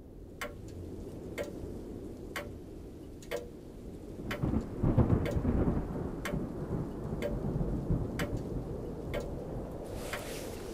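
A clock ticking about once a second, over a low rumble that swells to its loudest about four to six seconds in.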